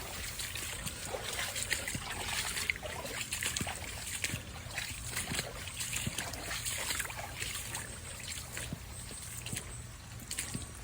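Shallow creek water trickling, with irregular small splashes and sloshes.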